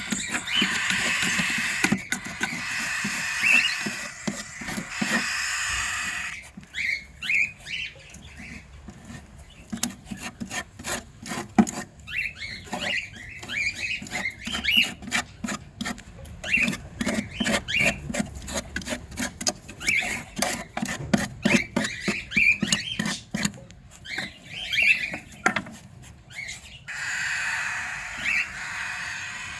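Cockatiels at a wooden nest box: a long run of quick clicks and scratches mixed with short chirps. A steady hiss fills the first six seconds and returns near the end.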